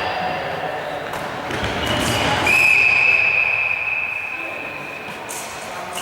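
Referee's whistle blown in one long, steady, high blast of about three seconds, starting about two and a half seconds in. Before it come players' voices and a few ball thuds.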